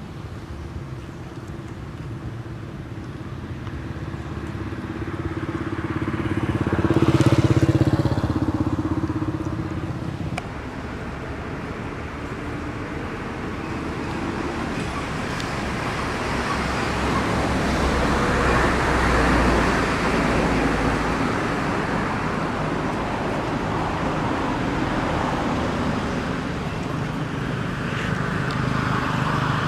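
Motor vehicles passing on a road. One passes loudly about seven seconds in with a steady engine tone, and a second swells past near the middle, over a continuous traffic background.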